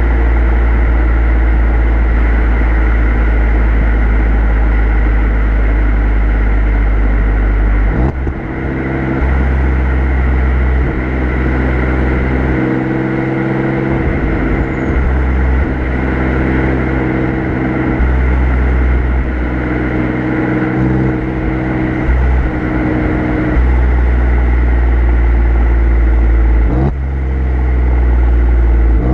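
Exhaust of an Alfa Romeo Giulia Quadrifoglio's twin-turbo V6, heard from the rear bumper, running steadily at an easy cruise. The engine note dips and shifts pitch briefly about eight seconds in and again near the end.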